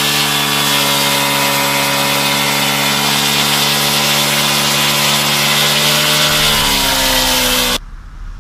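Small motorcycle engine held at steady high revs, loud, with thick smoke pouring from its exhaust; the pitch dips slightly about six and a half seconds in and the sound cuts off suddenly shortly after.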